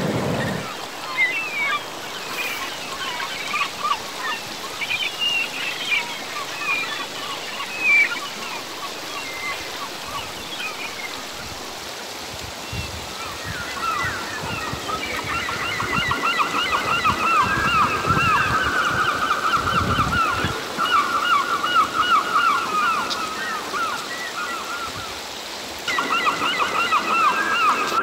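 Birds calling: scattered chirps at first, then from about halfway a dense run of rapidly repeated chattering notes, which pauses briefly near the end. A rushing stream is heard only at the very start and cuts off about half a second in.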